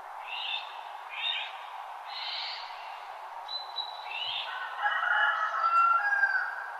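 Several wild birds singing at dawn: short chirps a few times in the first half, then louder whistled, warbling phrases through the second half. Under them runs a steady rushing background.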